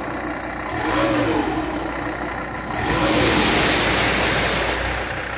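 2007 VW Crafter 2.5 TDI five-cylinder diesel engine being revved twice from idle: a short blip about a second in, then a bigger, louder rev around three seconds in that falls back to idle.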